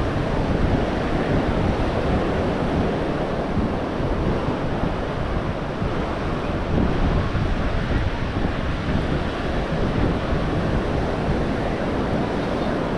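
Ocean surf washing on the beach, mixed with wind buffeting the microphone; a steady, even rush with no separate events.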